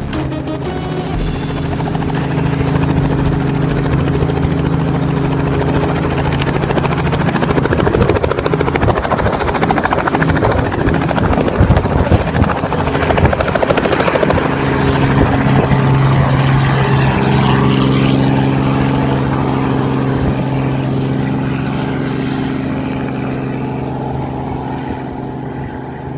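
Robinson R44 helicopter running, its six-cylinder piston engine and rotors making a steady low hum under a broad whooshing noise. The whooshing swells in the middle, and the hum comes back stronger past the halfway point.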